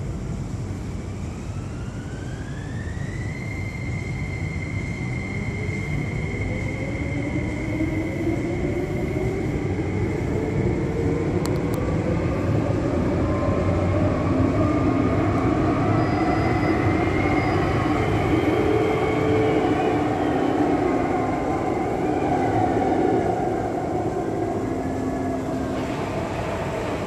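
MTR West Rail Line IKK electric train running through a station, its traction motors whining. A high whine climbs in the first few seconds and then holds steady, while rising tones build with the rumble of the train and grow loudest past the middle, easing off near the end.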